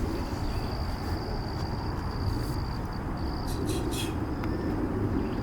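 Outdoor field ambience: a steady low rumble under a continuous high-pitched insect drone, which breaks off briefly about halfway through, with a few faint short rustles.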